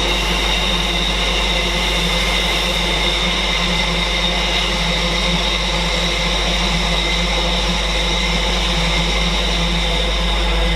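Class 66 diesel-hauled freight trains passing, a steady loud rumble of engine and rolling wagons with a few steady high tones through it.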